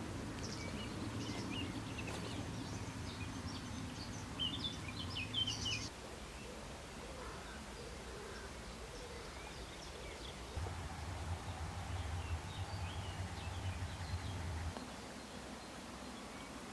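Small birds chirping in short high notes over a low steady rumble. The rumble cuts off abruptly about six seconds in, and returns for a few seconds later.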